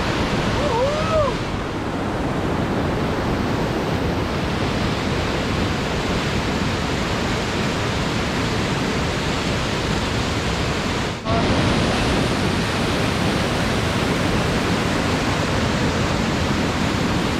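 Waterfall pouring: a loud, steady rush of falling water. A short rising-and-falling call sounds about a second in.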